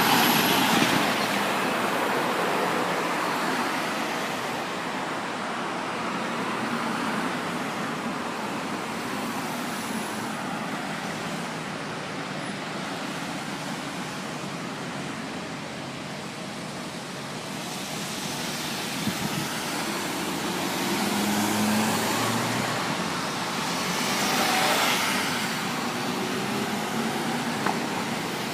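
Road traffic: vehicles driving past in a steady rush of tyre and engine noise. It swells as a vehicle passes near the start and again about three-quarters of the way through, with a brief engine hum just before the second pass.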